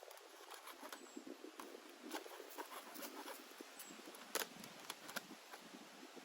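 Faint, irregular small clicks and taps over light rustling, with a few sharper ticks about four and a half seconds in.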